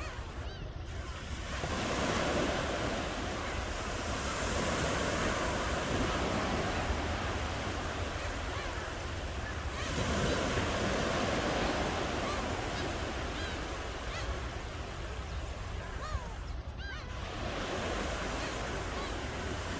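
Ocean waves washing onto the shore, swelling and receding three times, about eight seconds apart, over a steady low rumble.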